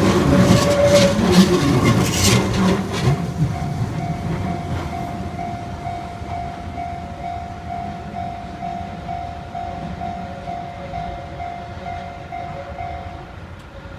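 A train passes over a level crossing, its wheels clattering over the rail joints, and the clatter dies away after about three seconds. Meanwhile the crossing's warning bell rings on in steady, even pulses, then stops shortly before the end.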